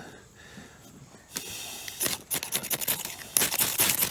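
Ferro rod (fire stick) being scraped again and again with a striker to throw sparks into tinder: rasping scrapes in quick runs that start about a second in and grow louder near the end.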